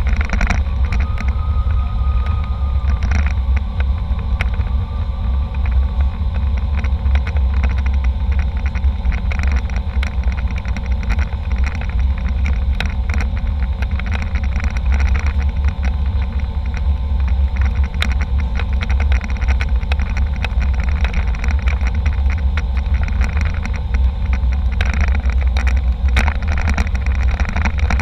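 Airliner cabin noise: a steady, heavy low rumble of engines and airflow, with frequent small clicks and rattles throughout.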